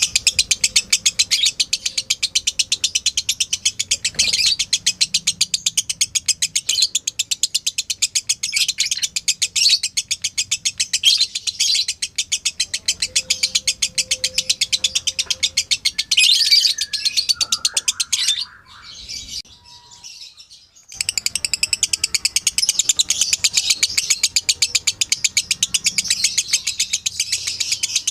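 Lovebird chattering in a long, rapid, high-pitched trill of evenly repeated chirps (the 'ngekek' song). It breaks off for about two seconds about two-thirds of the way through, then starts again.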